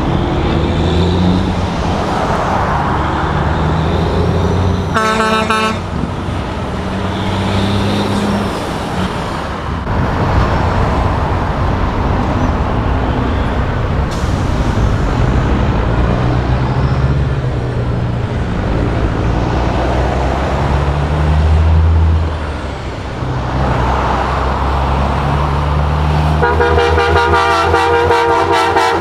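Semi trucks driving past with their diesel engines running and pitch shifting as they pull through the gears. A truck horn sounds in a short blast about five seconds in, and a longer blast near the end.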